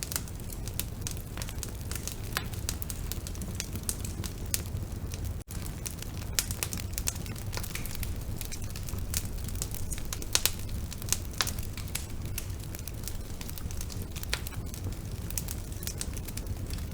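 Bonfire burning, the wood crackling and popping in irregular sharp snaps over a steady low rumble of the flames, with a split-second gap about five and a half seconds in.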